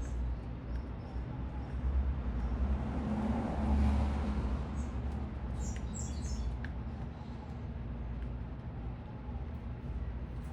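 Small birds chirping in short high notes, a cluster of them a little past the middle, over a steady low rumble of city traffic that swells as a vehicle passes about three to four seconds in.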